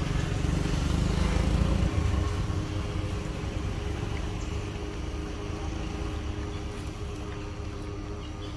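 A motor vehicle engine running with a low rumble, loudest about a second or two in and then slowly fading.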